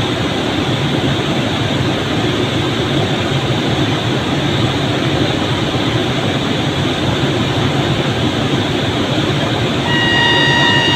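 Train noise, a steady loud rumble throughout. About ten seconds in, a train horn starts sounding, one steady pitched tone held on.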